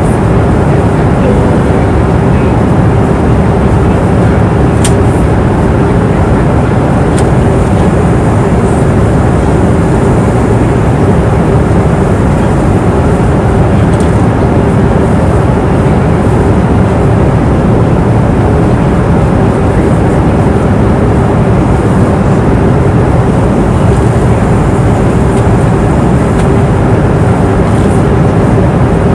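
Steady roar of a passenger airliner's cabin in cruise flight: engine and airflow noise with a constant low hum, a few faint ticks now and then.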